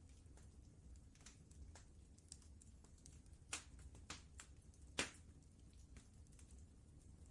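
Wood fire crackling faintly: scattered sharp snaps and pops at irregular intervals, the loudest about five seconds in, over a low steady rumble.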